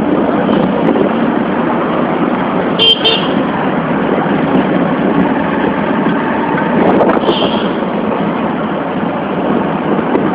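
Steady noise of a motorbike riding through city traffic, with short vehicle horn toots: a quick double beep about three seconds in and another toot around seven seconds.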